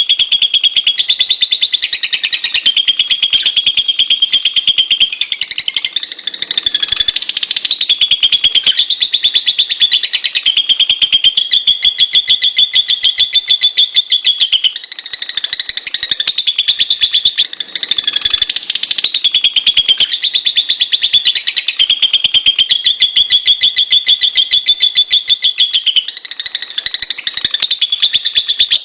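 Lovebird chattering: a continuous, very rapid, shrill high-pitched trill that shifts pitch now and then, with only brief slackenings.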